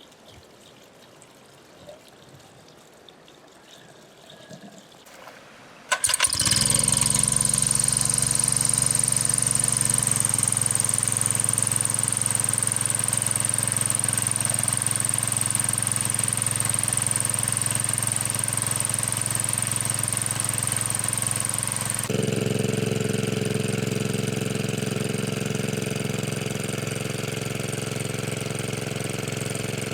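After a few quiet seconds, a small engine starts abruptly about six seconds in and keeps running steadily. Its tone shifts about two-thirds of the way through.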